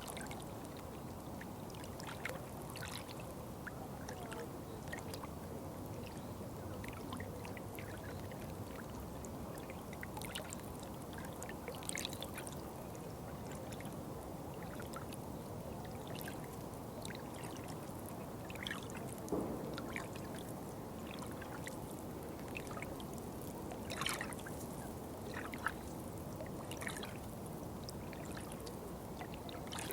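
Running water trickling steadily, with brief splashes and drips scattered through it.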